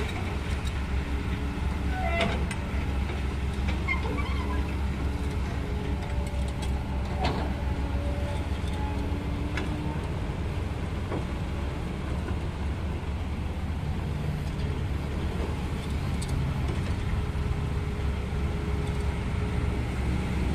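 Steady low rumble of road traffic, with a few faint short sounds such as distant voices or horns over it.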